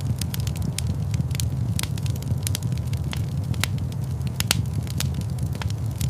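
Wood fire crackling in a fireplace: frequent sharp, irregular pops and snaps over a steady low rumble of flame.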